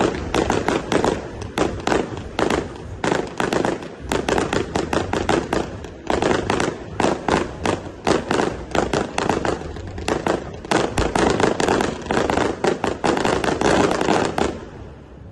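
Display fireworks going off in a rapid barrage, several sharp bangs a second overlapping one another, until they stop suddenly near the end.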